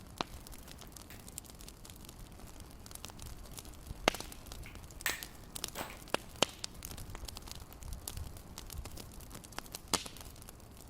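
Fireplace fire crackling: irregular sharp pops and snaps over a faint low rumble, with the loudest pops about four seconds in and near the end.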